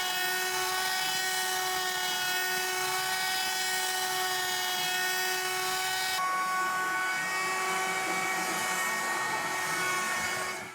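CNC milling spindle running at high speed while cutting: a steady high-pitched whine over a hiss. About six seconds in, the hiss thins and the whine's pitch shifts slightly.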